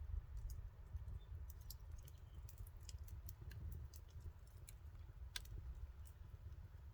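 Wood campfire crackling, with scattered sharp pops at irregular intervals, one louder about five seconds in, over a steady low rumble.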